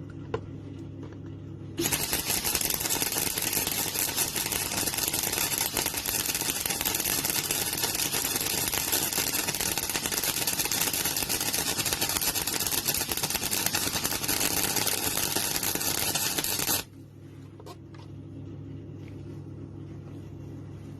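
MIG welder arc crackling steadily as a weld bead is laid over again on steel, starting about two seconds in and cutting off suddenly some fifteen seconds later. A steady low hum runs before and after the weld.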